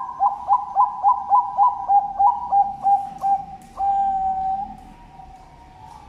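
Zebra dove (Bangkok perkutut) cooing its song: a quick run of about a dozen short notes, roughly four a second, followed about four seconds in by one long drawn-out note, then a fainter coo trailing on.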